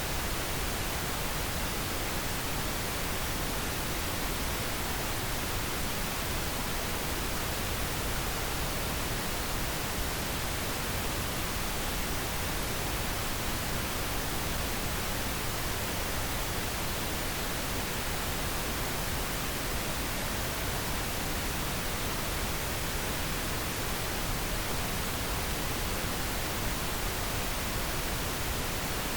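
Steady pink noise: an even, unchanging hiss spread across the whole range, played as a sleep aid for a baby.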